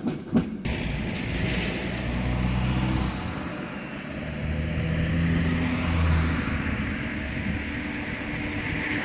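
Two sharp clicks at the start, then the steady rumble of a distant EP07 electric locomotive hauling passenger coaches, with a low hum that swells in the middle and eases off.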